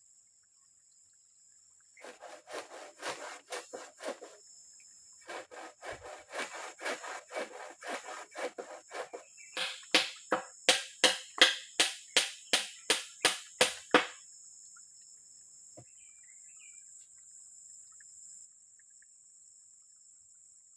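Wood being cut by hand in rhythmic strokes, in three bouts, the last one louder and sharper, with about two or three strokes a second. A steady high insect whine runs behind it.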